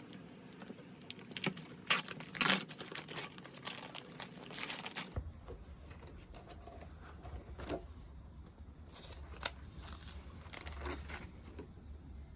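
Crinkling and rustling, like wrapping being handled, with sharp crackles for about five seconds; then quieter, with scattered taps and ticks over a low hum.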